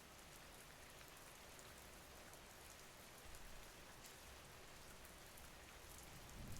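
Faint, steady rain: an even hiss with scattered fine drop ticks.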